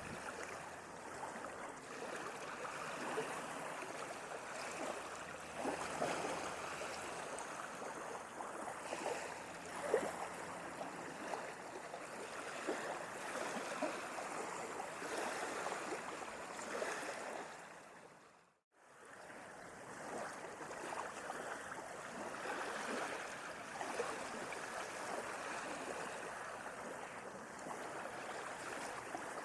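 Sea waves washing and splashing on the shore, a steady rushing with small splashes. About two-thirds of the way through the sound fades out briefly to silence, then fades back in.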